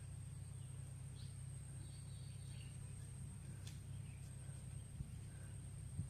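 Quiet rural outdoor ambience: a steady low rumble with a thin, steady high tone, faint scattered bird chirps, and two small clicks near the end.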